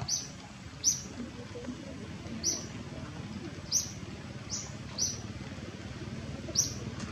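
A small bird chirping: about seven very short, high, falling chirps at uneven intervals over a steady faint background.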